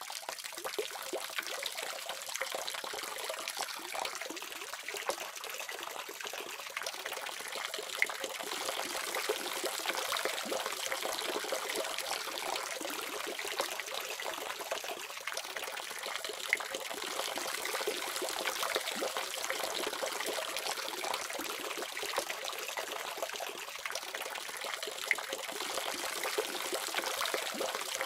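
Water running steadily from a faucet, a continuous splashing hiss with a few brief louder splashes.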